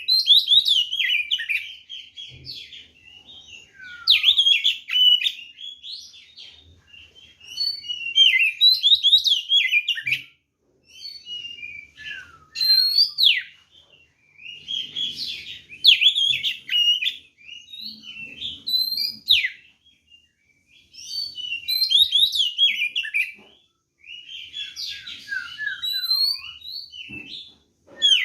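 Oriental magpie-robin (kacer) in full, aggressive fighting song: phrase after phrase of rapid, varied whistled notes, with short pauses between the phrases.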